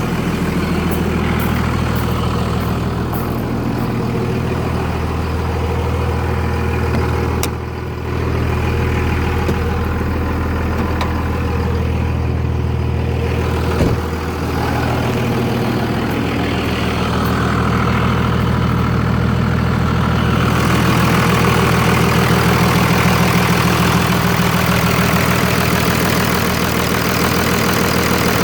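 Second-generation 24-valve Cummins 5.9-litre inline-six turbo diesel idling steadily while still cold, with a sharp knock about fourteen seconds in.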